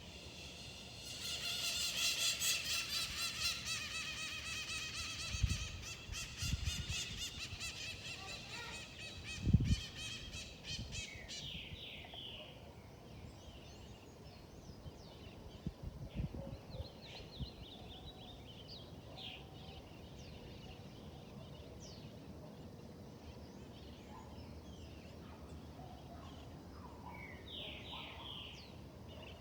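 Forest ambience with wild birds calling. About a second in, a loud, rapidly pulsing call starts and lasts roughly ten seconds. After it come scattered short chirps, and a few low thumps sound in the first half.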